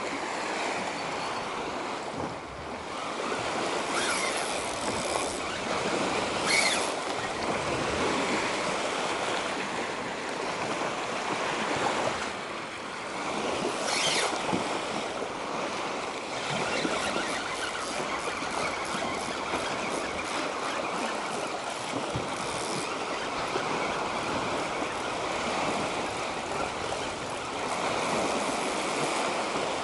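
Steady wind over choppy water, with small waves lapping, and a few brief rustles.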